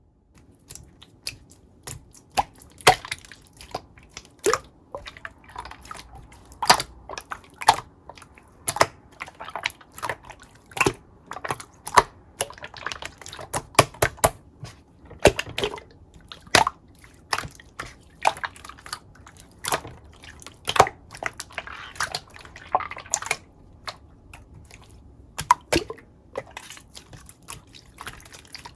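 Clear slime being pressed and squished by hand, giving many sharp, sticky pops and clicks at irregular intervals, with short stretches of softer wet squelching.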